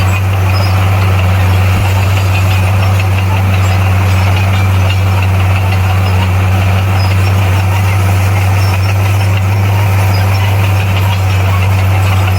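Heavy diesel engine of earthmoving machinery running steadily at a constant speed, a loud even low drone that neither revs up nor falls.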